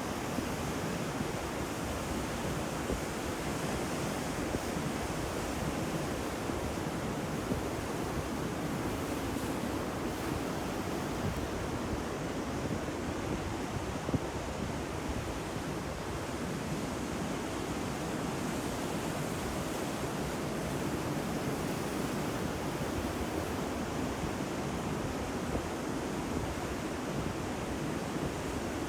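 Ocean surf breaking continuously, a steady rushing wash of waves.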